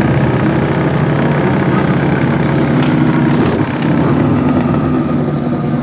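Racing lawn mower's small engine running steadily, its pitch shifting slightly about three and a half seconds in.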